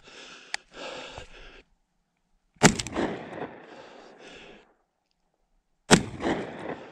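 Two shotgun shots about three seconds apart, each a sharp crack that trails off, fired at a wing-hit bird running on the ground; the shooter thinks both were clean misses.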